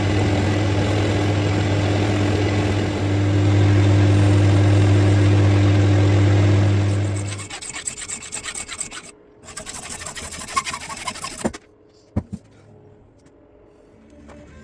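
Electric power tool running with a steady hum and rough, abrasive noise, winding down about seven and a half seconds in. Short rasping strokes follow for a few seconds, then a single click.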